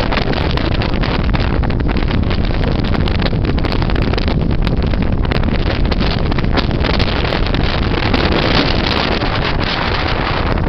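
Gale-force wind blasting across the microphone: a loud, steady rushing roar with no letup.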